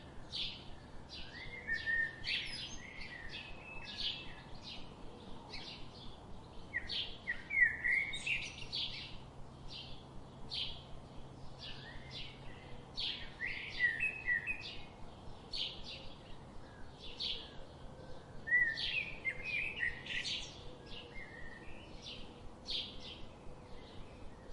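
Forest birds chirping and calling throughout, a few short high notes each second, some louder trills and flourishes among them, over a faint steady background hiss.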